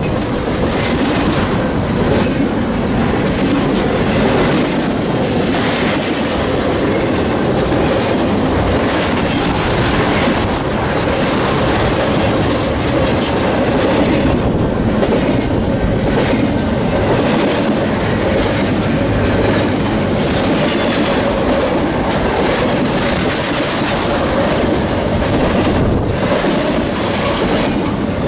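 Freight train rolling past close by: a steady, loud rumble of steel wheels on rail with irregular clicking over rail joints and a faint, steady squeal of wheels.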